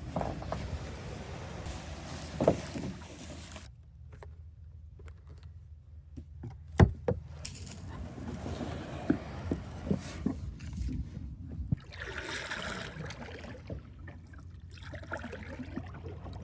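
A small boat being paddled across a pond: paddle strokes with splashing and trickling water, and a steady low rumble underneath. There are scattered sharp knocks, the loudest about seven seconds in.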